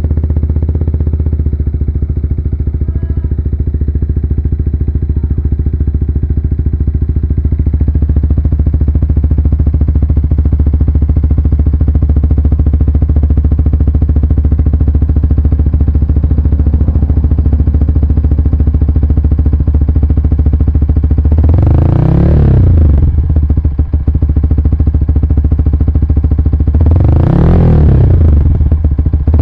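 Yamaha R15 VVA's single-cylinder engine idling steadily through an aftermarket R9 Assen exhaust. The engine is revved up and back down twice in the second half, and a third rev begins near the end.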